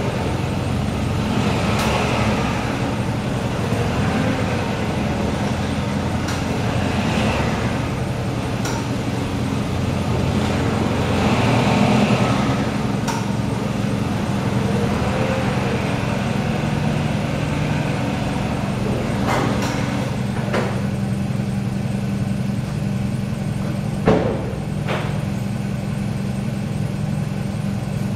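Vehicle engine idling steadily, its pitch shifting slightly now and then, with a few faint clicks and one sharp knock late on.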